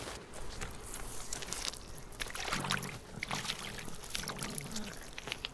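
Wild boar rooting through woodland leaf litter: irregular rustling, crackling and snapping of dry leaves and twigs, busiest around the middle.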